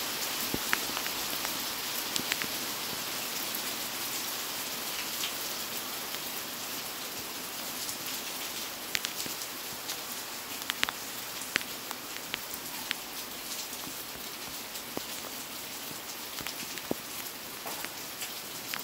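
Steady rain falling on a pond and grass: an even hiss with scattered sharp drop ticks.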